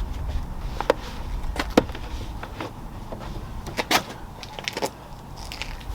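A handful of short sharp clicks and knocks, the loudest about two seconds in and again near four seconds, over a low wind rumble on the microphone that fades early on.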